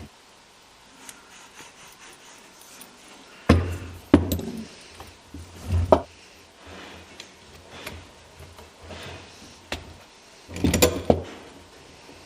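Hand tools and small metal parts being handled: a few separate knocks and clinks, with a short cluster of them near the end.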